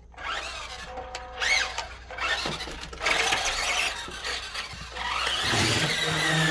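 WPL D12 RC truck's electric motor and gears whining, the pitch rising and falling with the throttle, with a rushing noise that grows louder from about three seconds in.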